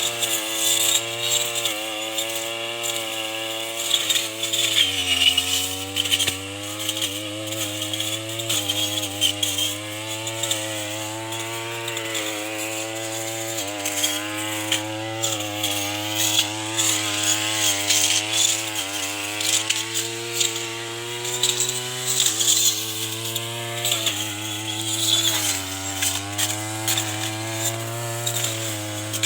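Tanika brush cutter engine running hard as it cuts grass and corn stalks. Its pitch sags several times under the load and climbs back, with scattered clicks from the cut material.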